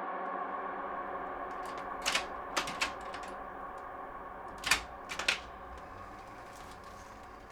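A sustained metallic drone, slowly fading, with sharp mechanical clicks: three about two seconds in and three more about five seconds in.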